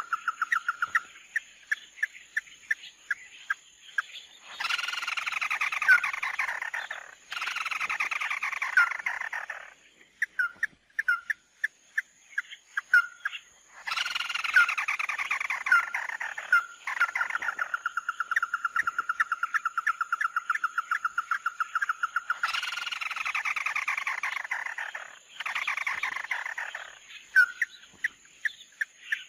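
Recorded calls of the bird known to Vietnamese trappers as "mắt đỏ". Loud descending trilled phrases, each about two to three seconds long, come five times and alternate with sparse short chirps. Near the middle there is one long, even, rapid trill lasting several seconds.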